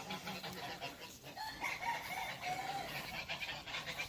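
Game chickens clucking, with a rooster crowing from about one and a half seconds in to about three seconds in.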